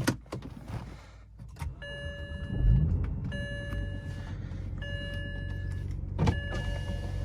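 BMW 335xi's twin-turbo 3.0-litre inline-six starting about two and a half seconds in, then idling steadily. A dashboard warning chime sounds four times, each tone about a second long.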